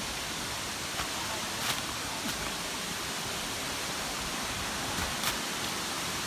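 Wli Falls, a tall waterfall, pouring down as a steady, even rushing noise. A few brief sharp sounds rise above it about a second, two seconds and five seconds in.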